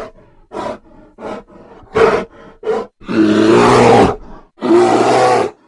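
Bear vocalising: four short grunts, then from about three seconds in two long, loud growling roars of about a second each.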